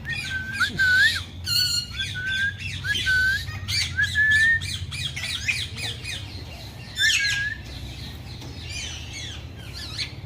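A cage of small parrots chattering and squawking: many short, quick calls, thickest over the first five seconds, with another loud cluster about seven seconds in, then fainter chatter.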